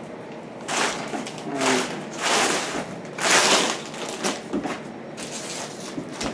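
Protective plastic film being peeled and torn off a new stainless-steel appliance, in four or five rough ripping, crinkling pulls about half a second each.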